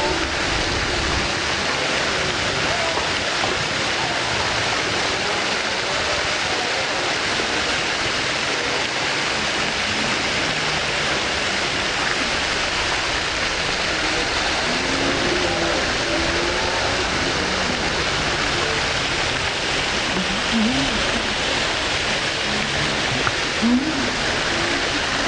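Steady rush of running water, with faint voices of people in the background now and then.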